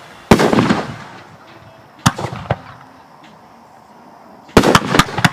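Aerial fireworks shells bursting: a loud bang just after the start that trails off over about a second, two sharp cracks about two seconds in, then a quick cluster of bangs near the end.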